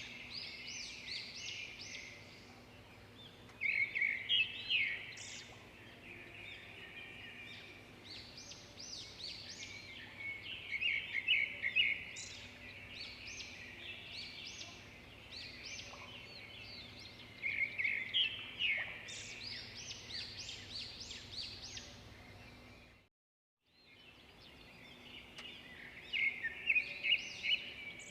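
A chorus of small songbirds chirping and twittering, in dense clusters every several seconds over a faint steady background hiss. The sound cuts out completely for a moment about 23 seconds in.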